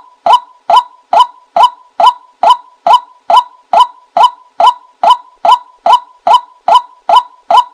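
A short, sharp bird call repeated at an exactly even pace, about two calls a second, each note fading quickly.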